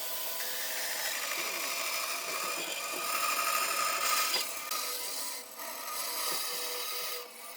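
A power tool working wood: a steady, noisy sound with a faint whine in it, dropping briefly twice in the second half.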